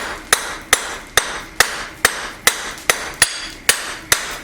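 Blacksmith's hammer striking hot steel on an anvil: about ten evenly paced blows, roughly two and a half a second, each with a short metallic ring.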